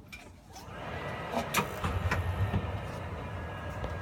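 A steady low rumble starts about half a second in and builds as the fixture is switched on, with a few clicks and a faint steady whine over it.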